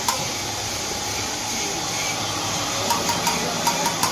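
Steady whir of workshop machinery with sharp, regular ticks, a few a second, that stop for a while and come back about three seconds in.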